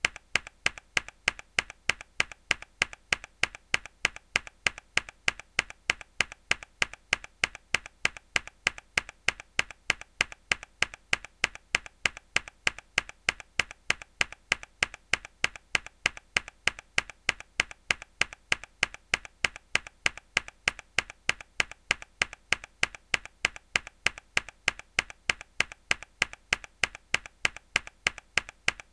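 Mechanical keyboard key pressed hard over and over in an even, fast rhythm, several sharp clicks a second, each loud click followed by a smaller one.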